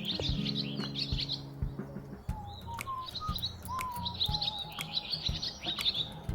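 Small songbirds chirping and twittering in quick, busy bursts, with a few short whistled notes, over background music whose low held tones are strongest in the first two seconds.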